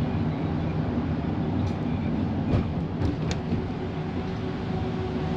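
Inside a moving bus: a steady low rumble of engine and road noise, with a few short rattles about halfway through.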